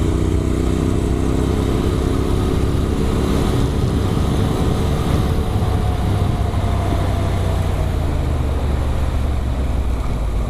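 Adventure motorcycle with an Arrow exhaust running at a steady cruise, its engine note easing down slightly in the first few seconds, with steady wind and road rush.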